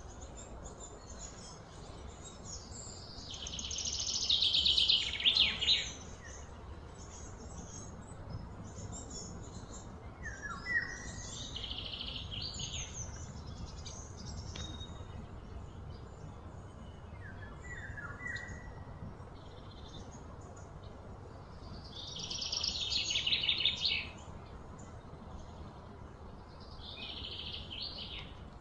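Birds singing: two loud, rapid trilling songs, about three seconds in and again about twenty-two seconds in, with shorter chirps in between, over a low steady rumble.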